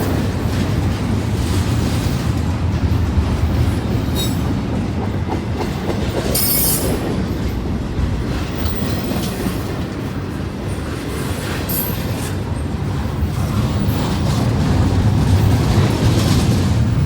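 Canadian National freight train rolling past: a steady low rumble of the freight cars on the rails, with brief high-pitched wheel squeals a few times, the strongest about six and a half seconds in.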